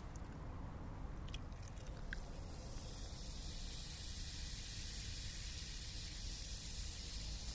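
Small campfire: a few sharp crackles in the first couple of seconds, then a steady hiss that sets in about three seconds in and keeps going, over a low rumble.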